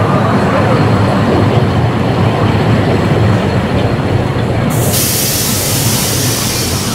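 Rumble and rattle of a 15-inch gauge park railway train running, heard from one of its open coaches. A loud hiss sets in suddenly about five seconds in.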